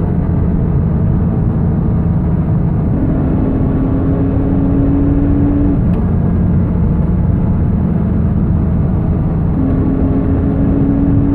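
2004 Porsche Boxster S at highway speed: engine and road noise with a steady whine from the transmission that comes in about three seconds in, stops near the middle, and returns near the end. The noise appears only on the throttle and sounds hollow; it came from a failing bearing in the transmission.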